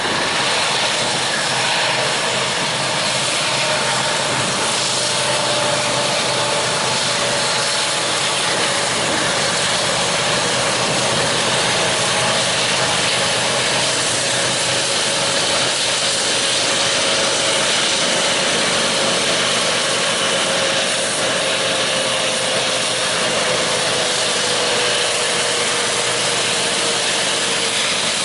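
Freight train running by: a steady loud noise of wheels and locomotive power with one whine that slowly falls in pitch.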